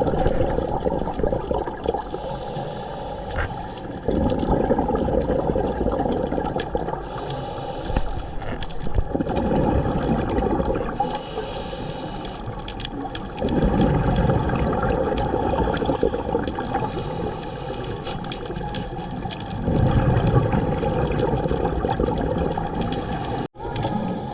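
Scuba diver breathing through a regulator underwater: a thin hiss on each inhale, then a loud rush of exhaust bubbles on each exhale, in a slow cycle of about five to six seconds.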